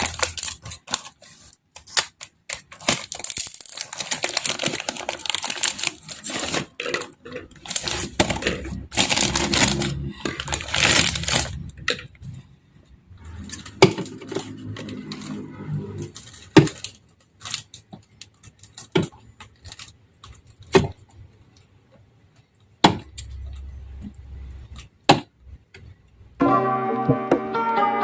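Groceries being handled and put away: plastic packaging crinkling and rustling, with many clicks and knocks of containers and items being set down. Music begins near the end.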